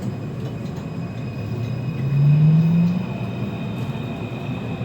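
Taipei Metro C341 train's steady low rumble, with faint high steady tones and a short rising hum about two seconds in, the loudest moment.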